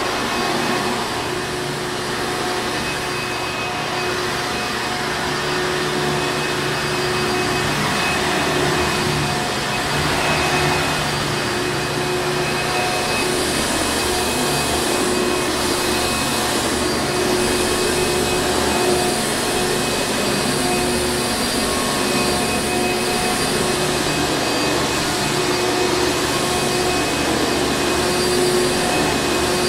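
Hoover Encore Supreme upright vacuum cleaner running without a break: a steady motor hum with a few constant tones over an even rushing hiss.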